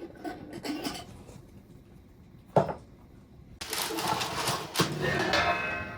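Kitchen handling noises: light clicks and scrapes, a sharp knock a little over two seconds in, then about two seconds of louder scraping and rubbing, like a spoon or utensil working against a dish.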